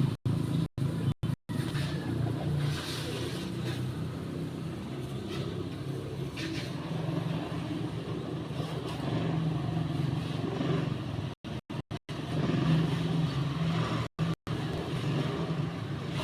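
A steady low motor hum, like a vehicle engine running nearby. The sound cuts out completely for a split second several times: near the start, about eleven to twelve seconds in, and again about fourteen seconds in.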